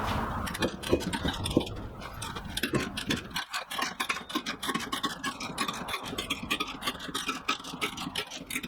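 Rapid, even clicking of a chain hoist's ratchet, about ten clicks a second, as a heavy anvil is lifted, with a few heavier knocks in the first couple of seconds.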